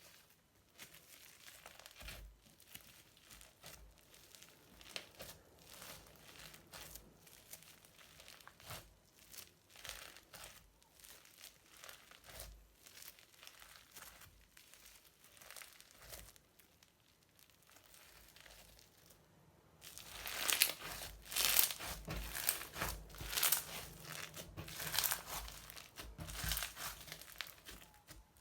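Crunchy slime mixed with modelling foam being squeezed and stretched by hand, giving dense fine crackling and popping. It is faint at first and grows much louder about twenty seconds in.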